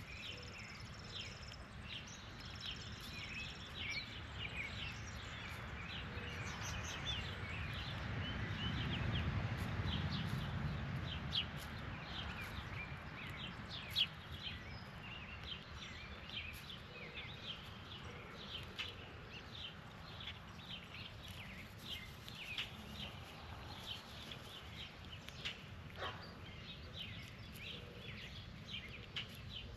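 Birds at a yard feeder chirping over and over in short, quick notes. A low rumble swells and fades about ten seconds in, and there are two sharp clicks a few seconds apart.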